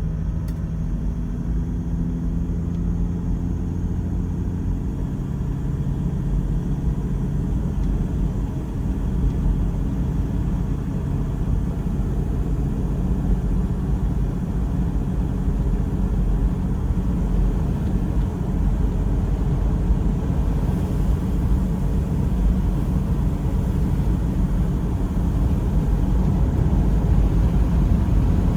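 Toyota Land Cruiser 100 Series 4.2-litre straight-six turbo diesel running with a steady low rumble, its pitch shifting slightly in the first few seconds.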